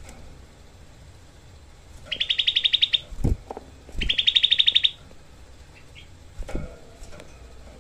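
Grey-bellied bulbul (cucak kelabu) giving two rapid, harsh trills of quickly repeated notes, about fourteen a second and each trill about a second long: the tight 'shot' phrase prized in this songbird. A few dull low thumps come between and after the trills.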